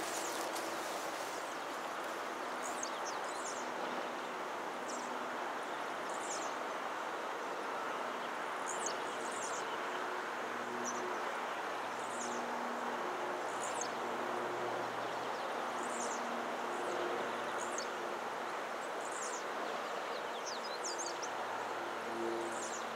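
Outdoor ambience: birds giving short high chirps every second or two over a steady rushing background noise, with a faint low hum coming and going.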